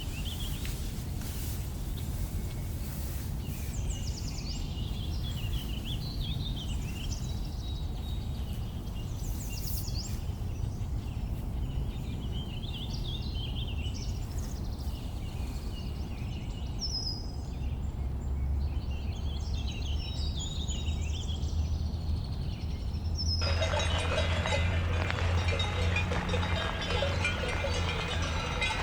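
Birds chirping over a steady low rumble of outdoor ambience. About three-quarters of the way through, a busier, denser sound starts suddenly and runs on.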